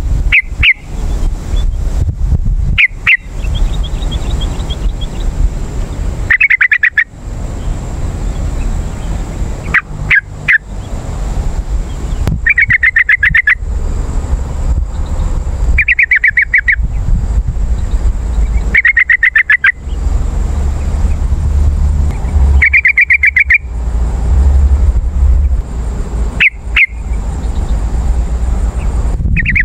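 Yellow-vented bulbul (trucukan) singing: short bubbling phrases of quick notes, repeated about every three seconds, over a steady low rumble.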